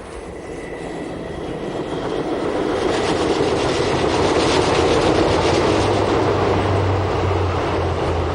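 A train running along the track, growing louder over the first few seconds and then holding steady with a low hum underneath.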